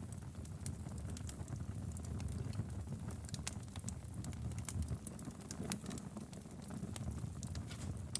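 Wood fire in a fireplace burning with a low steady rumble and frequent sharp, irregular crackles and pops.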